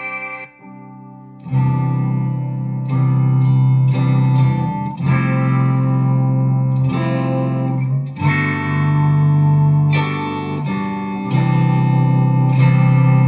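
Guitar played through a BOSS SY-200 synthesizer pedal: a run of sustained synth notes, changing about every second or two, after a brief drop near the start.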